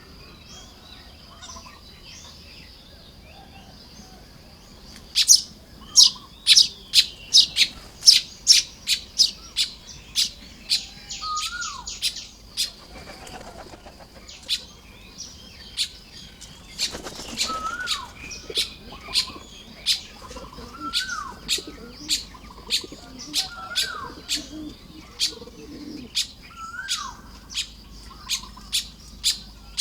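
Baya weavers calling at their nests: a long run of sharp, short chips, about two a second, starting about five seconds in. Lower falling whistles repeat every second or two in the second half, and there are two brief rustling bursts, with a steady high tone underneath.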